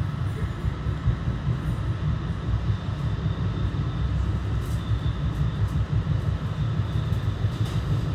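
Steady low rumble of a Bombardier BTC-1B commuter rail coach rolling along the track, heard from inside the car, with a few faint clicks and rattles.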